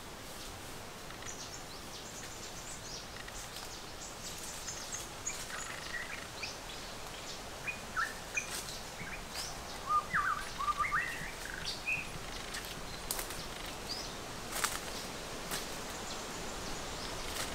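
Small birds chirping and calling over steady forest background noise, with a quick cluster of louder notes about ten seconds in and a few short clicks later on.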